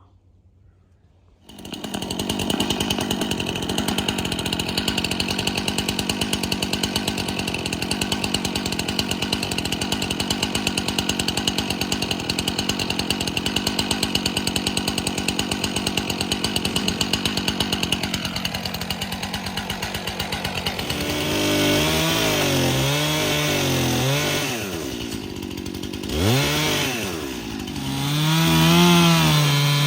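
Chainsaw cutting in suddenly about a second and a half in and running at a steady speed. In the last third its engine speed rises and falls several times as it is worked into wood.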